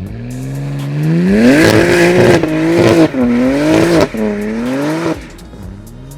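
BMW G80 M3's twin-turbo inline-six, on an aftermarket IRL exhaust, accelerating hard. The engine note climbs steadily, then drops sharply at several quick upshifts before falling away near the end.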